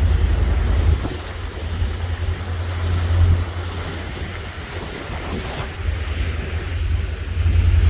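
Wind gusting across the microphone on the open deck of a moving boat, over the rush of the sea; it drops after about a second and swells again near the end.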